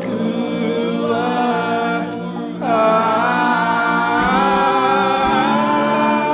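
Worship music: wordless singing, a voice holding long notes over steady held chords, with a strong new sung note coming in about two and a half seconds in.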